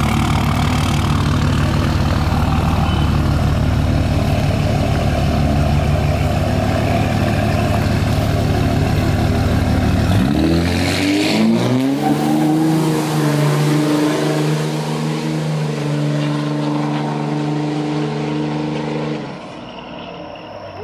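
Vehicle engine rumbling loudly with a low pulsing beat, then revving: about ten seconds in its pitch climbs sharply and settles into a steady, higher drone that drops away near the end.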